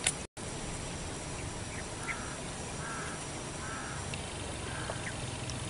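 A bird calling four times, about a second apart, each a short call, over a steady low outdoor hum. A brief click at the very start.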